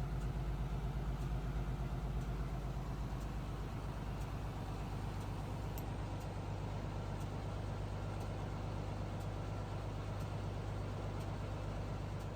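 Diesel engine of a Seagrave Attacker fire pumper idling steadily, an even low hum with no change in speed.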